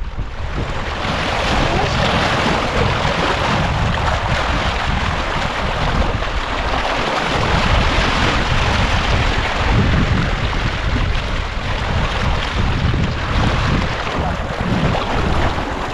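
Steady wind buffeting the microphone over a continuous rush of water and a low rumble.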